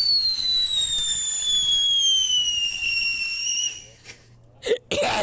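Piccolo Pete whistling firework giving one long shrill whistle that slowly falls in pitch and cuts off about three and a half seconds in. A few short loud bursts of sound follow near the end.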